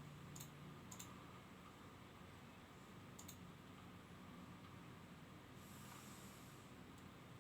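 Near silence: faint room tone with a few soft clicks, and a brief faint hiss about two-thirds of the way through.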